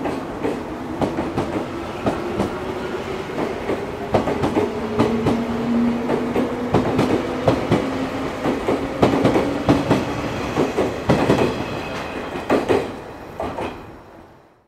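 183-series limited express electric train pulling out and gathering speed, its wheels clattering over rail joints and points in a dense run of clicks, with a motor whine slowly rising in pitch. The sound fades away near the end.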